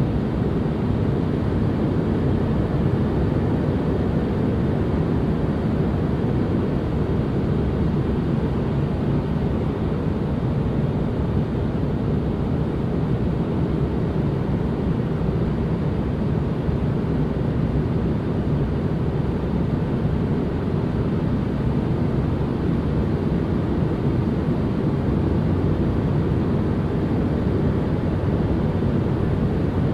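Steady white-noise ambience: an even, deep rushing noise with most of its weight low and little high hiss, unchanging.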